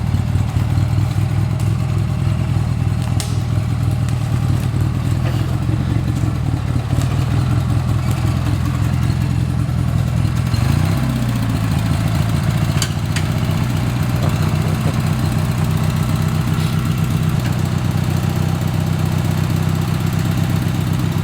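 Craftsman LT4000 riding lawn tractor's vertical-shaft engine running steadily, with a brief drop and recovery in engine speed about ten seconds in, and a couple of sharp clicks.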